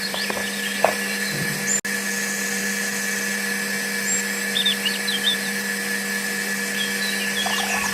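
A power tool's motor running steadily at a constant pitch, cut off for an instant about two seconds in, with a few faint squeaks over it.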